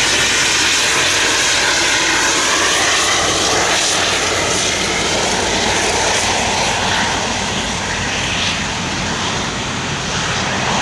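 Engines of an airliner passing at an airport, a loud steady noise that eases slightly in the last few seconds.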